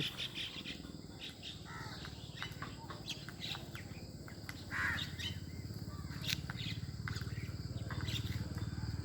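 Birds gathered for food, calling: many short scattered chirps and tweets, with a harsher crow caw about five seconds in. A low steady hum runs underneath.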